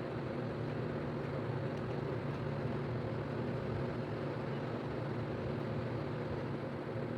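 A steady low mechanical hum with a constant drone that does not change.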